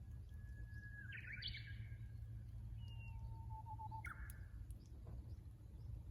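Japanese bush warbler (uguisu) singing its 'hoo-hokekyo' song twice: each phrase is a long held whistle that breaks into a quick rising warbled flourish, the first about a second in and the second, lower and shorter, at about four seconds. A steady low hum runs underneath.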